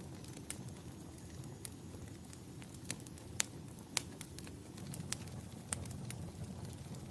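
Wood fire crackling in a fireplace: scattered sharp pops and snaps, two louder ones near the middle, over a low steady rumble.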